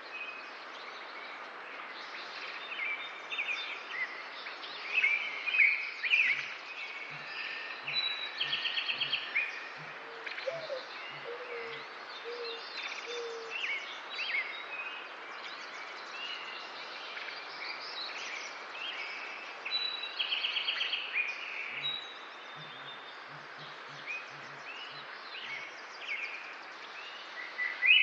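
Several wild birds chirping and singing, with a few rapid trills, over a steady outdoor hiss.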